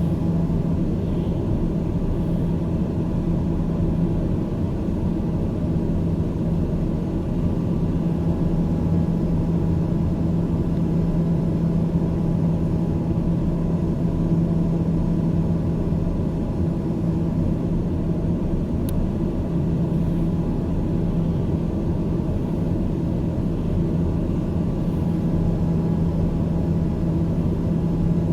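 Airplane engines droning steadily: a constant low hum with one steady tone.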